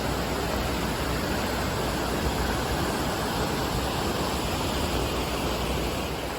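Floodwater rushing steadily in a storm-swollen creek, a constant dense rushing noise with a deep rumble underneath.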